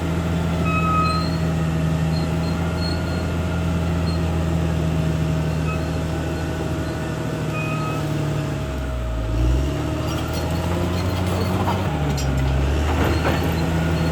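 CAT D6R XL bulldozer's diesel engine running steadily. About two-thirds of the way in, its pitch drops briefly, then climbs back, and it dips once more shortly after.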